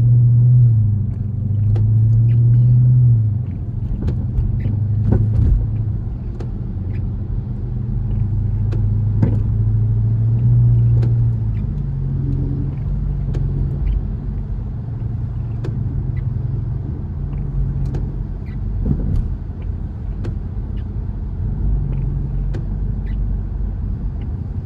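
Dodge Charger R/T's 5.7-litre HEMI V8, heard from inside the cabin while driving. A low engine hum swells under throttle and eases off several times, strongest near the start and around ten seconds in, with scattered light ticks over it.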